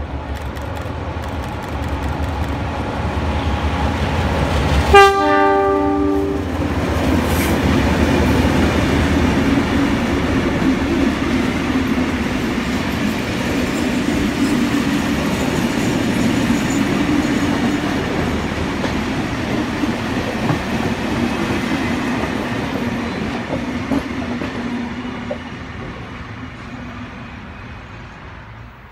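Two 44 class diesel-electric locomotives hauling a passenger train past, with a short blast on the horn about five seconds in as they approach. Their engines build up and pass, then the carriages roll by with wheels clattering over the rail joints, fading away near the end.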